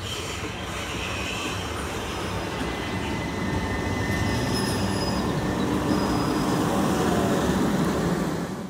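Southern Class 377 Electrostar electric multiple unit running into the platform, its coaches rumbling past and growing louder, with faint high-pitched squeals over the rumble. The sound cuts off abruptly at the end.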